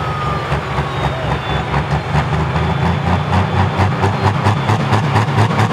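Pro stock pulling tractor's turbocharged diesel engine running at low speed with a heavy, rhythmic pulse. A high whine falls away in the first second.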